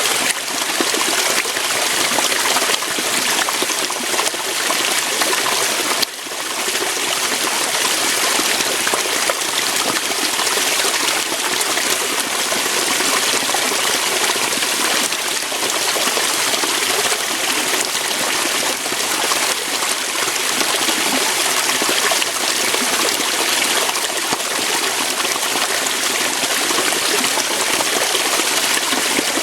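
Waterfall: water pouring over rocks in a steady, full rushing splash, with a brief dip in level about six seconds in.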